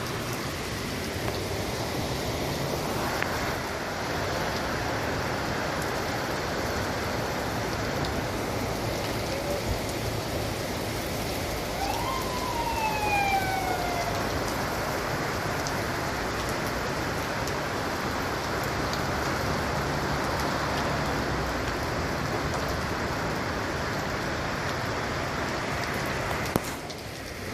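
Steady rain falling, an even hiss. About twelve seconds in, a brief falling tone with overtones passes over it.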